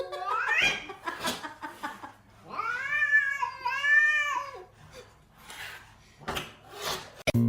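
A domestic cat yowling: a rising call at the start, then two long wavering meows about three and four seconds in, followed by a few short noisy bursts.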